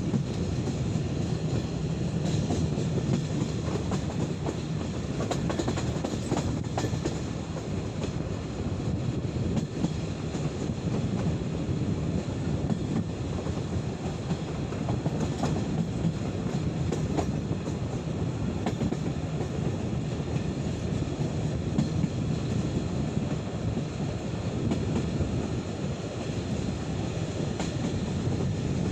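Passenger train coaches running along the track, heard from an open window: a steady rumble of wheels on rail with scattered clicks of the rail joints.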